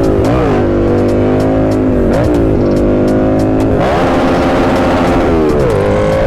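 Motorcycle engine accelerating through the gears. Its pitch dips at each shift and climbs again, and there is a louder, rougher stretch about four seconds in.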